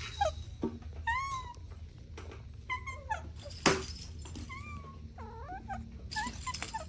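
Kittens mewing, a string of short high-pitched calls that rise and fall, about half a dozen spread over several seconds. A single sharp knock about three and a half seconds in is the loudest moment, over a steady low hum.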